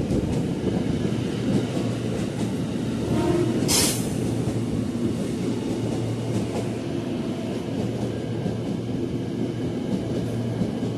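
Electric commuter train moving on the track, a steady rumble of wheels and running gear, with a short hiss about three and a half seconds in.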